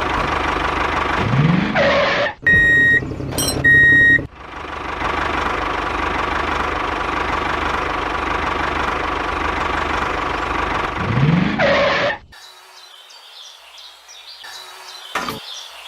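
The motor of a homemade miniature tractor runs steadily with a constant whine, broken briefly by a few high electronic beeps a few seconds in. The motor sound cuts off suddenly about 12 seconds in, leaving fainter sounds.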